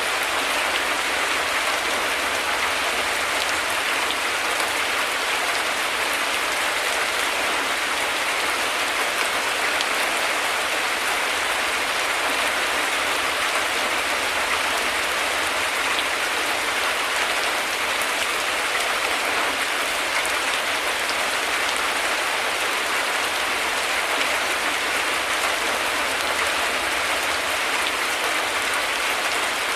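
Heavy rain falling steadily: a dense, even hiss of countless drops, unchanging in level, with no thunder.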